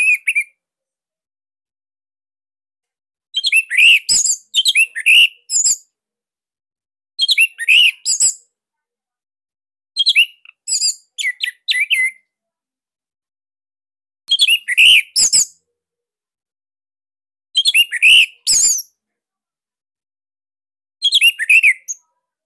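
Orange-headed thrush (anis merah) singing in short, fast, high-pitched phrases of rapid sliding whistled notes, six phrases about three seconds apart with complete silence between them.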